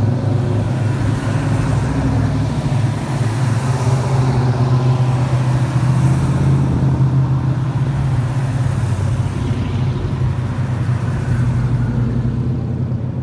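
Ford hardtop car engines running with a steady low rumble, easing off slightly near the end.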